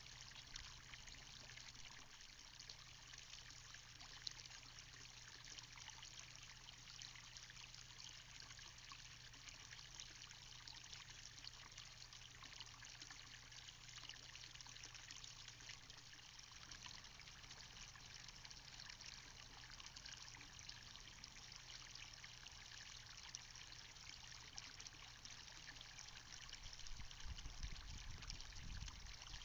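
Rain falling steadily, a faint fine patter of many small drops, with a low rumble swelling near the end.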